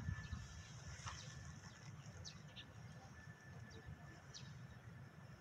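Small birds giving short, high, falling chirps a few times over a few seconds, faint, over a low steady rumble and a faint steady high tone.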